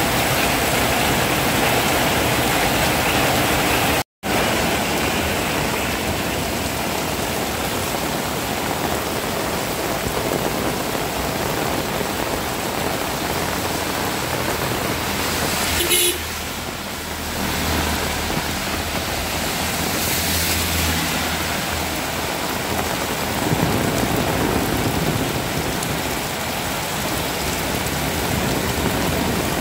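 Heavy rain falling steadily, a dense even hiss. The sound cuts out for an instant about four seconds in, and a low rumble swells and fades around the middle.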